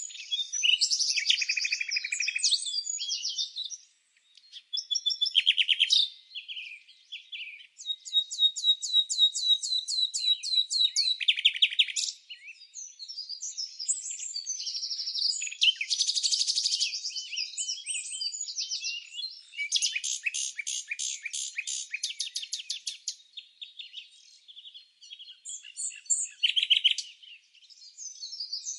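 Songbirds singing and chirping in overlapping phrases, with two long, fast trills of evenly repeated notes, one about a third of the way in and one about two-thirds through. There is no wind or other background noise under the birdsong.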